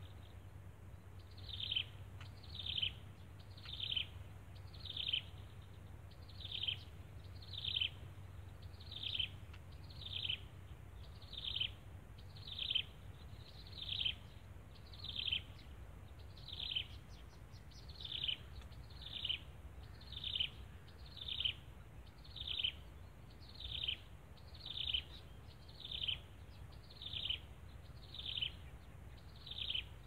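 A bird's short, high call falling in pitch, repeated steadily about once every second, over a low hum.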